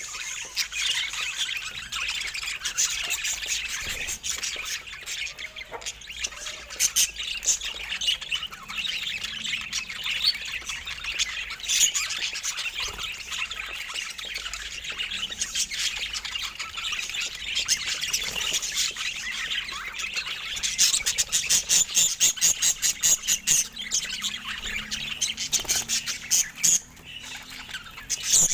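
Budgerigars chattering and chirping, many calls overlapping without a break. About three-quarters of the way through there is a run of rapid, sharp squawks.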